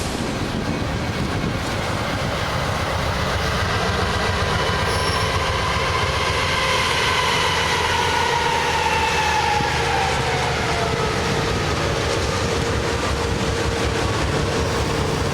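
A train running past on the rails: a steady rumble, with a few high tones that slide down in pitch through the middle of the passage.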